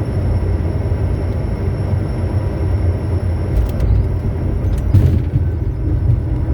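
Low, steady cockpit rumble of a Bombardier Challenger 350 at touchdown and on the landing rollout, with a single knock about five seconds in.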